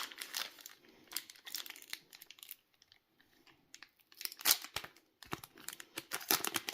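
Foil trading card booster pack wrapper crinkling and tearing as it is handled and opened, in quick, irregular crackles with a brief lull near the middle and the loudest, densest crackling in the last few seconds.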